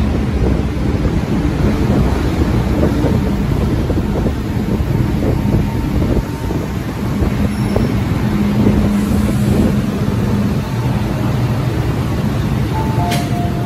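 MTR Tsuen Wan Line M-Train running alongside the platform: a steady loud rumble of wheels and running gear with a low motor hum. Near the end a two-note electronic chime sounds.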